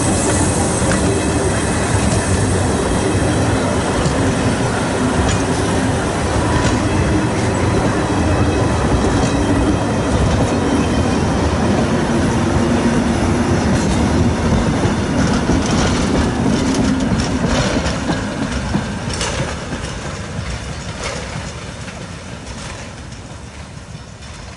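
Steam-hauled train of passenger carriages and goods wagons rolling past close by, the wheels clicking over the rail joints. The sound fades steadily over the last several seconds as the train moves away.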